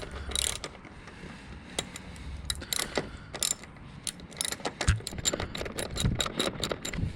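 Hand ratchet wrench clicking as a seat bolt is tightened down: scattered clicks at first, then a quick run of clicks in the second half.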